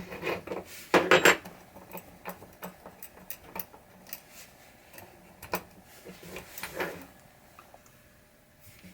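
Small metal hardware being handled: nuts, washers and screws clinking and clicking against each other and a metal tool, in scattered sharp clicks with a louder clatter about a second in.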